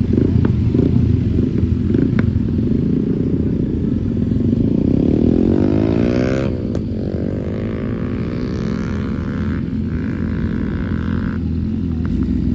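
Car engine noise over steady road rumble. The engine's pitch climbs for about two seconds as it revs up, drops sharply about halfway through, then falls away slowly over the next few seconds.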